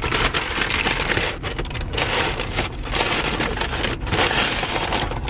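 Crinkling and rustling of cake packaging being handled and opened, in uneven crackly bursts over a steady low rumble.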